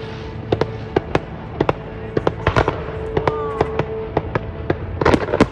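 Fireworks display: a string of sharp bangs and crackling pops at irregular intervals, bunching into a rapid cluster near the end.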